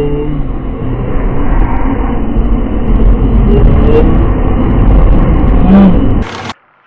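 Loud, low rumbling road and engine noise of a car driving, as picked up by a dashboard camera. It cuts off abruptly about six and a half seconds in.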